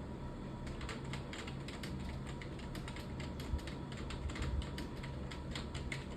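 Computer keyboard being typed on fast: a quick, uneven run of key clicks, several a second.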